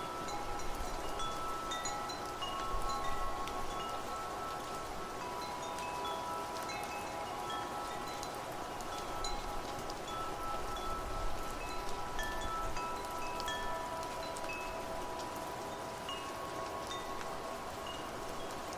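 Wind chimes ringing irregularly, many short high notes over longer sustained tones, with steady rain hiss beneath.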